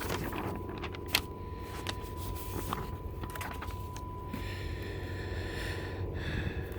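A steady high-pitched test tone over a low hum from the radio-alignment bench, with scattered clicks and small knocks from handling leads and controls. A hiss comes in from about four seconds in and drops away near the end.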